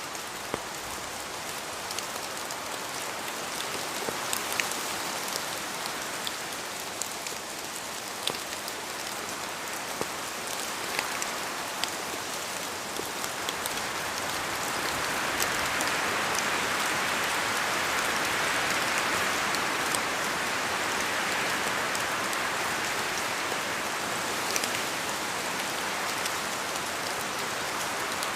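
Steady rain falling, with many individual drops pattering and ticking on a hard surface; the downpour grows a little heavier about halfway through.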